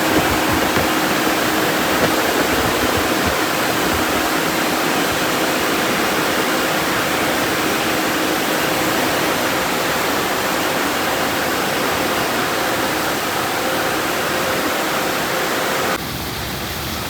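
Car wash dryer blowers running: a loud, steady rush of air with a faint hum under it. The dryer sounds like a Belanger unit. The rush drops off suddenly about a second before the end.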